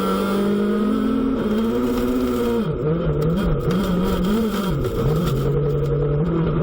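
Rally car engine running hard. Its pitch holds, steps up, then rises and falls repeatedly as the throttle is lifted and reapplied, and settles lower near the end.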